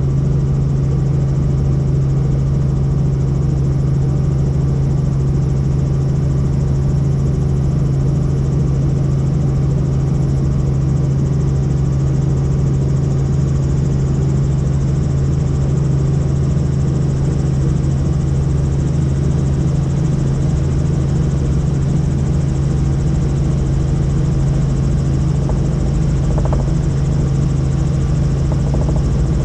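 Helicopter in steady flight: the rotor and engine make a loud, unbroken drone with a strong deep hum.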